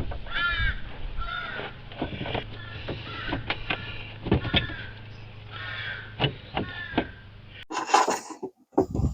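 Crows cawing over and over, with scattered clicks and knocks. Near the end the sound changes abruptly to a few short bursts of rustling and knocks.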